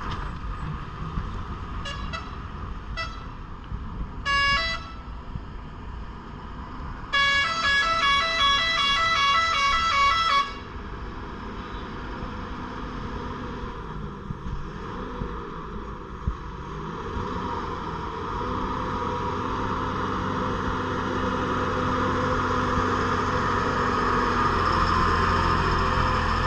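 Lorry horns: a few short toots, then a longer, louder multi-tone horn blast of about three seconds. After it, a heavy diesel lorry engine runs steadily and grows louder as the truck labours up the hill.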